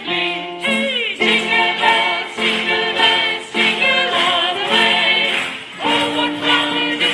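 A group of voices singing a Christmas song together, with jingle bells ringing along.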